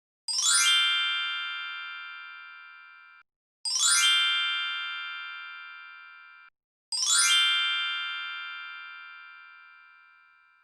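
Caption sound effect: a quick rising run of bright chime notes that rings on and fades over about three seconds, played three times in a row.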